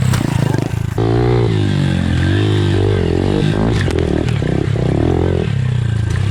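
Pit bike engine revving up and down repeatedly as the bike is ridden around a dirt track over jumps.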